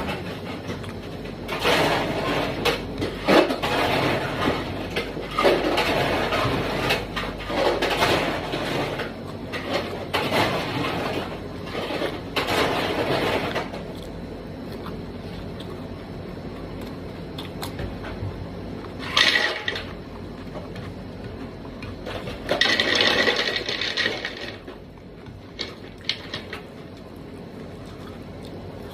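Eating sounds from a plate of chicken curry and rice: irregular bursts of noisy chewing and food handling, several in a row through the first half, then two more in the second half.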